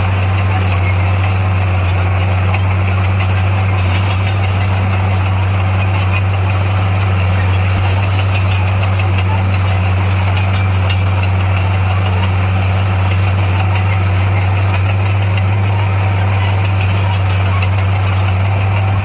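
Heavy construction machine's diesel engine running steadily at a constant speed, a loud, even low drone with no revving.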